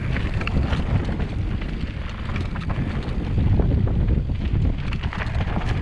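Wind buffeting the camera microphone: a loud, gusting low rumble that swells about three and a half seconds in.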